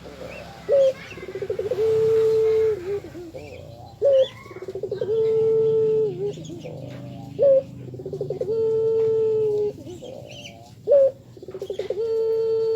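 Puter (Barbary dove) cooing over and over, about four calls: each a short sharp note, a quick stuttering run, then a long steady coo that drops at its end. Faint chirps from smaller birds sound above it.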